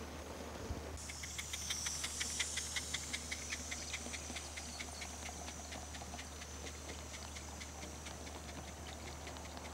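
16mm scale live-steam model locomotive: a steam hiss comes on suddenly about a second in, with a fast run of sharp exhaust beats, several a second. The beats are loudest over the next few seconds and then fade.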